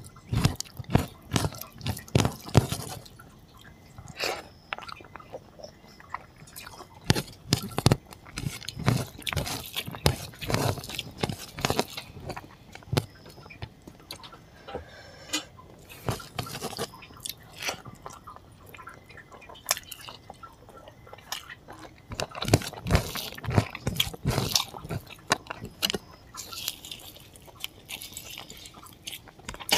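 Close-miked eating sounds: a person chewing rice and pork curry eaten by hand, with wet mouth and lip smacks in uneven runs of sharp clicks, and fingers mixing rice and gravy on a plate.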